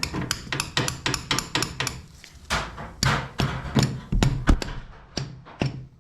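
Hammer tapping the steel rod of a cam bearing removal tool on a Harley-Davidson Evo engine, about three light metallic taps a second, driving the tool into the bearing.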